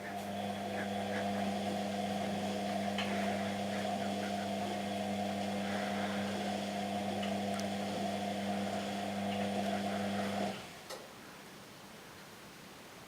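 Washing machine motor humming steadily as the drum turns, then cutting off suddenly about ten seconds in.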